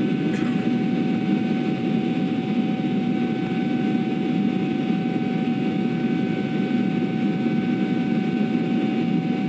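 Airliner cabin noise in flight: a steady rush of jet engines and airflow heard from inside the cabin, with a constant humming tone over it.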